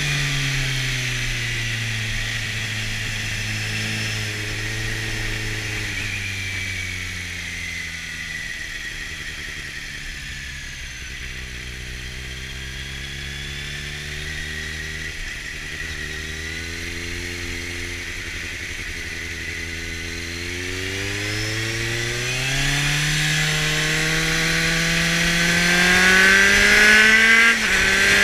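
2004 Kawasaki Z750's inline-four engine through a LeoVince exhaust, heard on the move. The revs drop in the first couple of seconds and hold low and steady for a long stretch. Then they climb steadily under acceleration, with a brief break in the note about a second before the end, as at a gear change.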